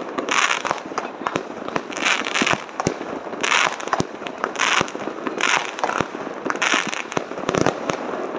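Fireworks going off: many sharp bangs in quick succession, with a hissing crackle that swells about once a second.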